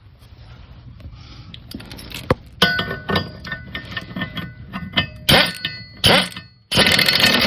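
Metal clinking and clanging, with ringing tones, as the socket and mower blades are handled under the deck, cut by two short loud bursts of the air ratchet. Near the end the air ratchet starts running steadily and loudly.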